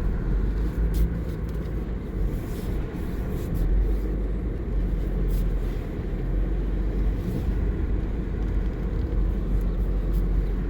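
2017 Subaru Outback on snow tires creeping along a snowy dirt road in its lowest traction setting: a steady low rumble of engine and tyres, with scattered light clicks and crunches from the surface underneath.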